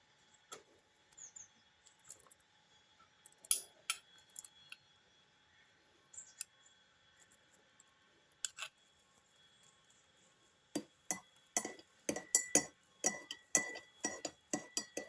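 Light clinking taps: a few scattered clicks at first, then a quick run of sharp taps, about three to four a second, over the last four seconds.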